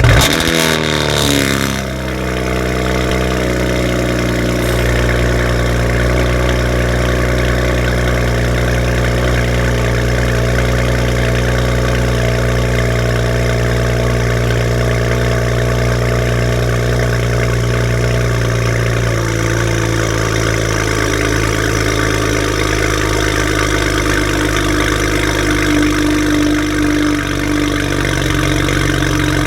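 A BMW 335is's twin-turbo inline-six, run with catless downpipes and its exhaust valves held open, fires on a cold start with a brief flare. It settles into a steady fast cold idle whose note drops a little past the middle.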